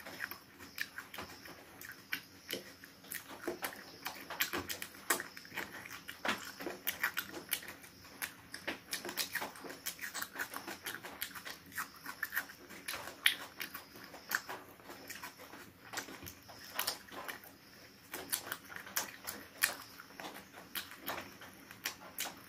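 Close-up wet chewing and lip-smacking of a person eating chicken pieces by hand, with many irregular sharp smacks and clicks.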